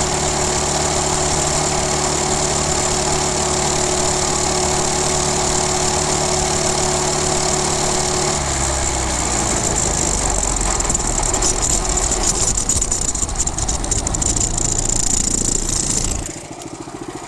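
Coleman CT200U minibike's small single-cylinder engine running under way. It holds a steady note for about eight seconds, then turns rougher and uneven, and the sound drops off sharply about a second before the end.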